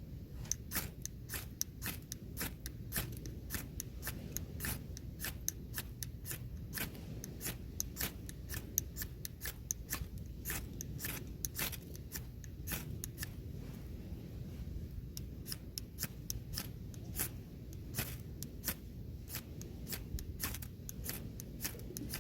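A long run of quick, irregular sharp clicks, several a second, over a low steady background.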